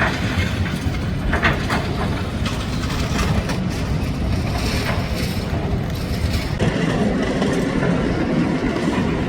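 Heavy diesel machinery running steadily, with a couple of sharp metal clanks about one and a half seconds in. The low rumble grows heavier from about six and a half seconds.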